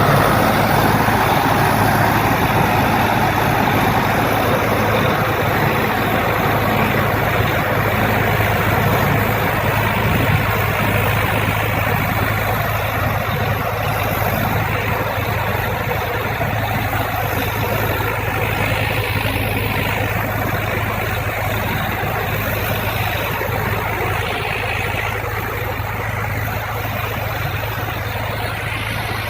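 Diesel farm tractor engine running steadily while pulling a rotary tiller through the field. Its level eases off slightly toward the end.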